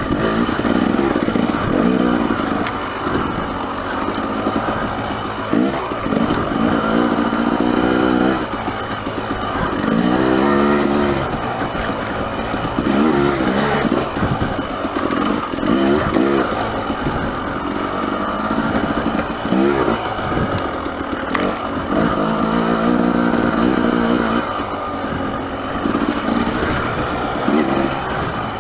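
Dirt bike engine revving up and down over and over as the throttle is worked, its pitch rising and falling many times.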